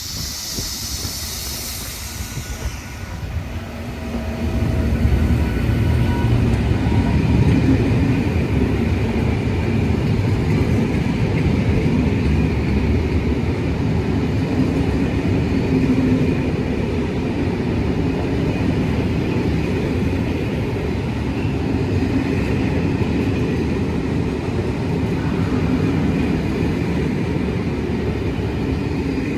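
A hiss of air for the first three seconds or so, then a train running close by: a loud, steady low rumble of wheels and traction that builds about four seconds in, with a faint hum over it.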